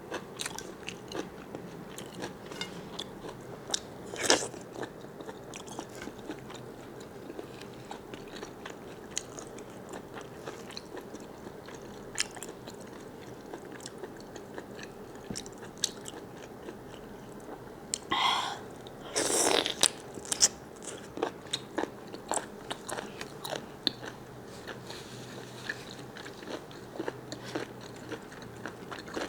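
Close-up mouth sounds of a person biting and chewing large squid: a steady run of small wet clicks and crunches, with a louder burst about four seconds in and a few louder noisy bursts around eighteen to twenty seconds in.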